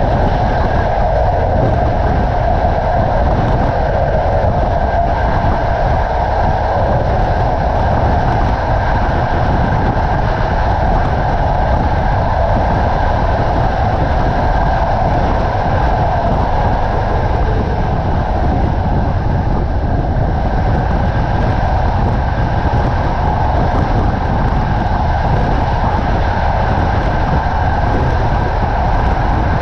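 Passenger train carriage running steadily along the line, heard at a carriage window: a continuous rumble of wheels on rails mixed with rushing air, with a faint steady high tone over it.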